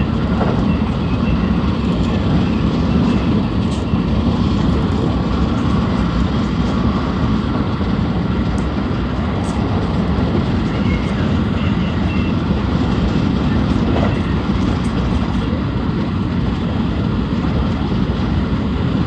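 JR West 223-series electric train running at speed, heard inside the passenger car: a steady rumble of wheels on rail, with a few faint clicks.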